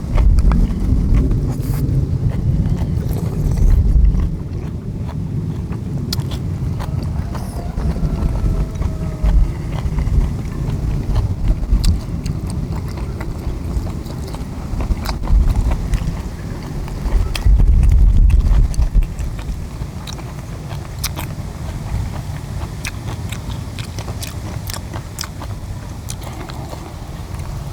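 Close-up chewing and biting of chewy stir-fried small octopus and kimchi, with scattered small clicks over a low, uneven rumble that swells twice.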